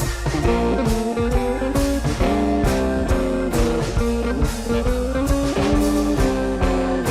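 Background music: a blues-rock track with a lead electric guitar playing a melody over bass and drum kit.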